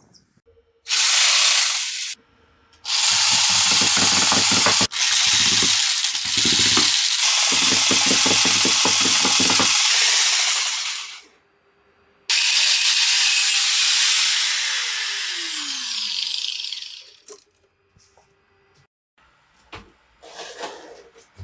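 A handheld power tool cutting or grinding in three runs: a short one, a long one and a third. During the third run a falling whine is heard as the motor winds down.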